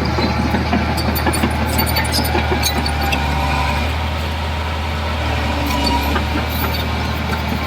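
Heavy diesel earthmoving machinery running steadily: a constant low engine hum with scattered metallic clanks and rattles over it.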